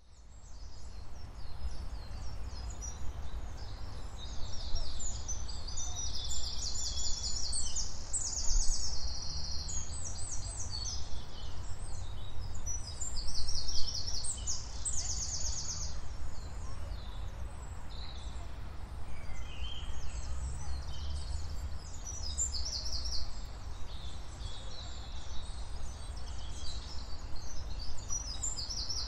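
Several songbirds singing at once, a mix of rapid trills and repeated chirps, over a steady low rumble. The sound fades in from silence at the start.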